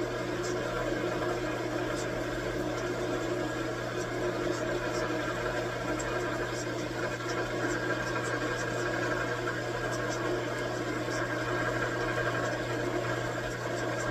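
Metalworking machine running steadily with a constant hum, with faint light ticks scattered through it.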